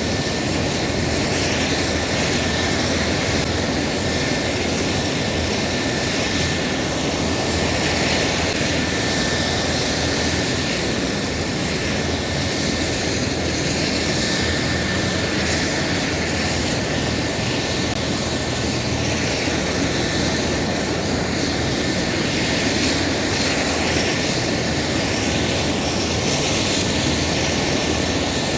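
Helicopter engine and rotor running steadily: an even, unbroken drone with a faint high whine held on one note.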